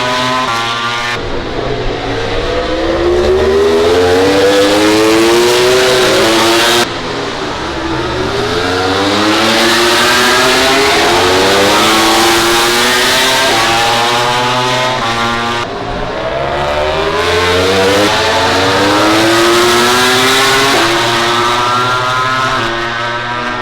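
MotoGP racing motorcycles accelerating hard, the engine note climbing and dropping back again and again as they shift up through the gears. The sound changes abruptly twice.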